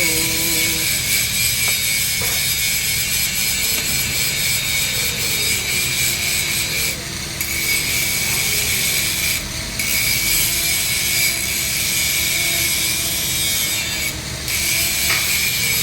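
Electric arc welding on a 3-inch schedule 80 steel pipe joint: a steady, loud frying crackle of the arc, broken briefly three times.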